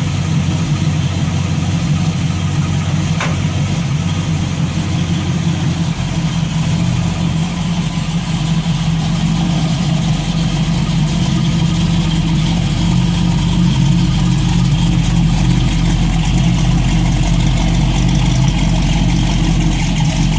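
1969 Chevrolet Camaro's engine running steadily, its low rumble growing fuller about six seconds in, with a single short click about three seconds in.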